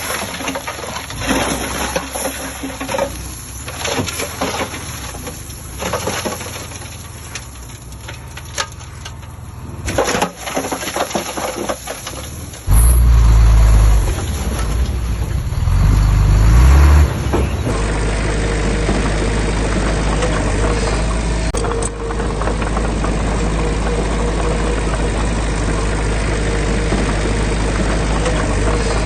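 Heavy diesel construction machinery working: irregular knocks and scraping noise, then a loud low engine rumble for about five seconds partway through, followed by a steady engine drone.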